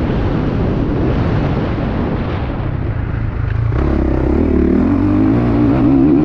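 2021 Honda CRF450 single-cylinder four-stroke motocross engine running under throttle as the bike is ridden on a dirt track, heard from an onboard camera with a loud rushing noise over it. A bit over halfway through the rushing eases and the engine note comes through stronger and steadier as the bike climbs a slope.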